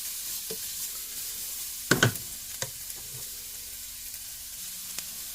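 Chopped garlic and onion sizzling steadily in hot oil in a frying pan, stirred with a utensil that knocks against the pan about two seconds in and again shortly after.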